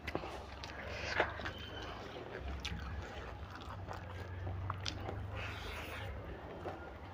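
Close-up chewing and mouth sounds of a person eating noodles with her hand, with scattered sharp clicks and rustles as her fingers gather noodles on a banana leaf, over a low steady hum.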